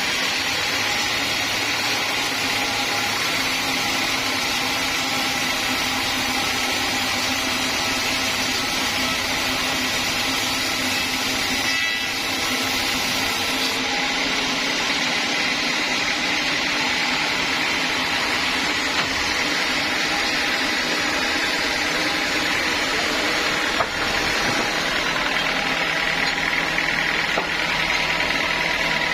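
Sawmill log saw running steadily while sawing teak, with one short sharp knock late on.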